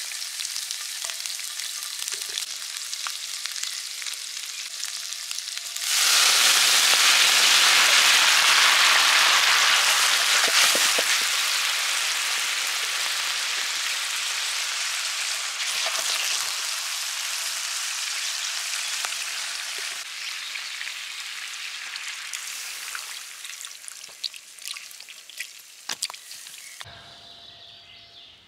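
Shrimp and garlic frying in oil in a cast-iron pan. About six seconds in the sizzle jumps suddenly much louder as liquid goes into the hot pan, then slowly dies down over the following seconds and fades near the end.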